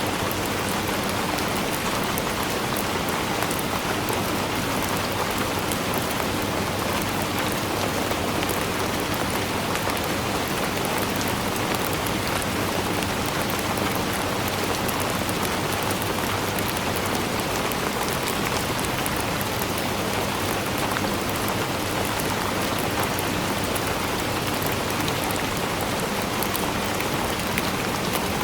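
Steady rainfall: an even, unbroken hiss of rain with many fine individual drop hits, holding the same level throughout.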